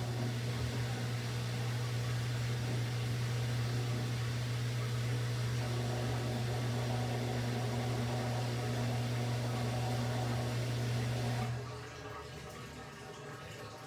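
Washing machine running with a steady low motor hum and a few higher tones over it. The hum cuts off fairly suddenly near the end, leaving the machine much quieter.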